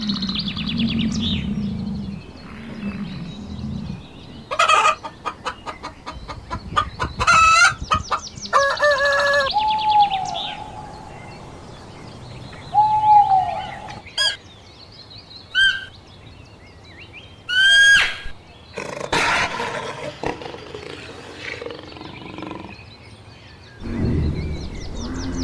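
Birds calling: a series of separate calls of several kinds, including quick runs of repeated notes and a couple of drawn-out calls that fall in pitch.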